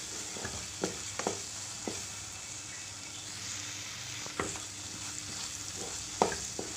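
Crumbled beef brain sizzling steadily in hot oil in a metal karahi while it is stirred with a wooden spatula, which knocks sharply against the pan a few times. This is the well-roasted (bhuna) stage, with the dish nearly done.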